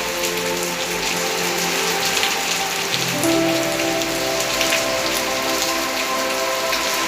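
Steady rain falling on a surface, with many individual drops ticking through the hiss. Soft sustained musical notes sit underneath and change chord about three seconds in.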